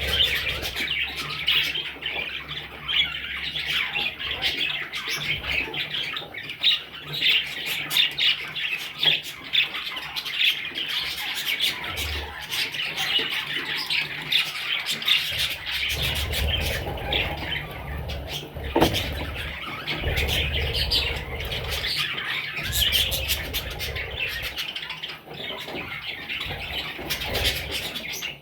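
Budgerigars chattering and squawking in many fast, overlapping calls, with a low rumble coming and going underneath.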